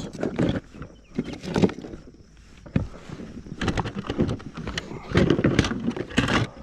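Handling noise close to the microphone: irregular knocks, clatter and rustling, most likely gear being rummaged through and a hooked fish being handled while pliers are found to unhook it.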